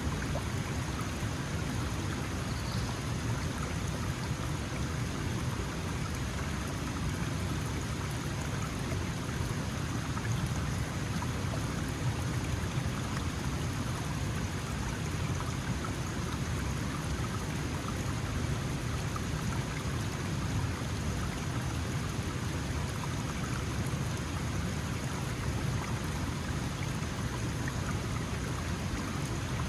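Small mountain stream flowing: a steady, even rush and babble of water over stones.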